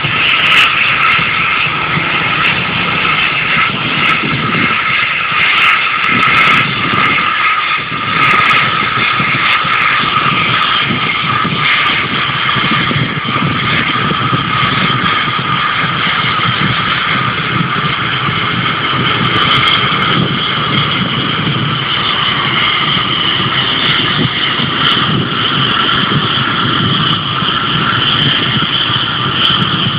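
Airliner jet engines running with a steady high whine over a low rumble.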